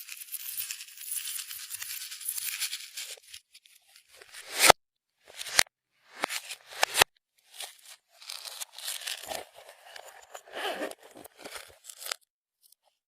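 Clear slime being worked by hand, with a wet crackling as it is stretched and squished and several sharp pops in the middle as air pockets burst.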